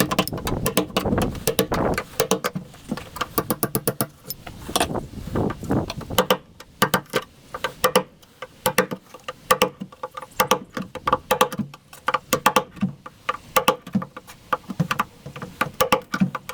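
Sheet metal and copper piping of a fridge being worked apart by hand: irregular, rapid metallic clanking and rattling, many sharp knocks with a brief ring.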